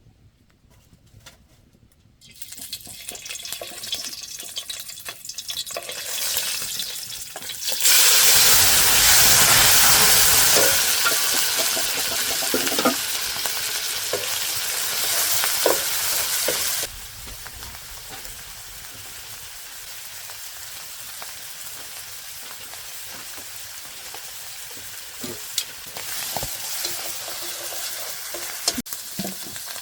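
Food sizzling as it fries in hot oil in a pan. The sizzle starts a couple of seconds in, turns loud about eight seconds in, and drops to a steadier, quieter sizzle with a few clicks after about seventeen seconds.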